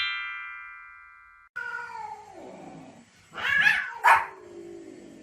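A chime-like tone fading away, cut off about a second and a half in. Then a dog gives a long whine that falls in pitch, followed by two sharp, loud barks.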